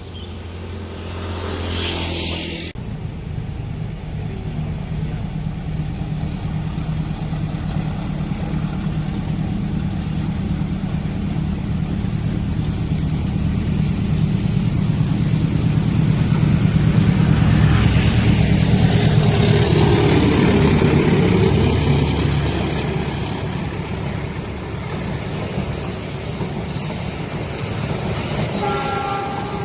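Diesel train engine running and growing louder as it nears the level crossing, loudest about two-thirds through, where its pitch drops as it goes by.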